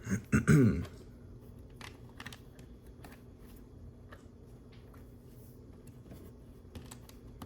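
Plastic LEGO bricks being handled and pressed together: a few faint, scattered small clicks and rustles.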